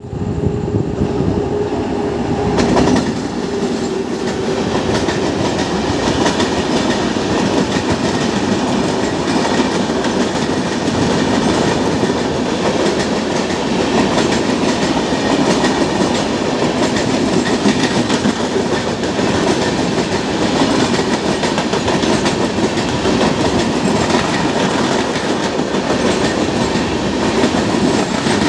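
Indian Railways express passenger train in motion: the steady, loud running noise of its coaches' wheels on the rails.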